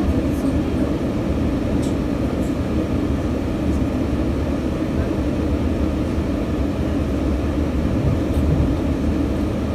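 Steady low rumble inside a passenger train carriage as the train runs at speed.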